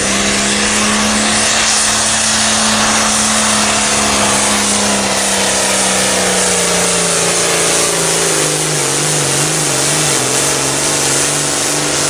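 Pulling tractor's engine running loud at full throttle, its pitch holding steady, then sagging about halfway through and wavering as the engine comes under heavy load.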